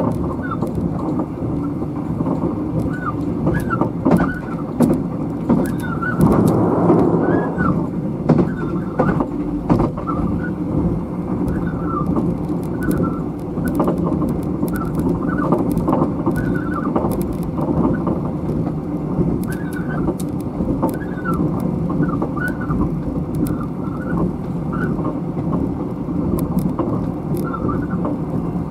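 Interior running sound of a sleeper-train carriage at speed: a steady rumble of wheels on rail, with many short squeaks and scattered clicks from the moving car.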